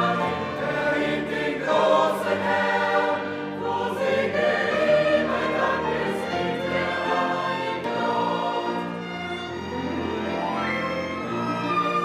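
Background music: a choir singing over orchestral accompaniment.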